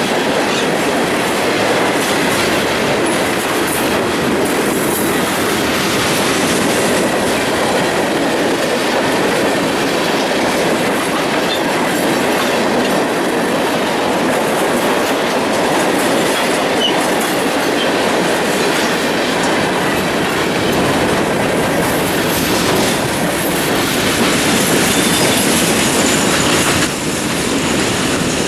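Freight train cars rolling past on steel wheels: a steady, loud rumble and rattle of wheels on rail.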